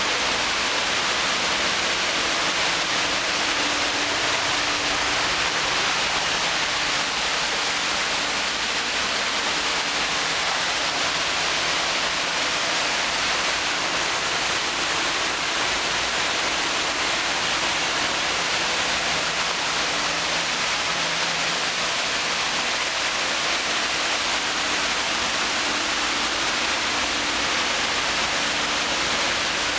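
Park waterfall: water pouring and splashing in a steady, unbroken rush.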